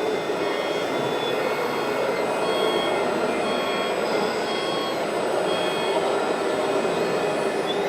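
Reversing beeper of a radio-controlled truck's sound module, giving short high beeps a little under a second apart, from a few seconds in until about three quarters of the way through. Underneath runs a steady rushing noise.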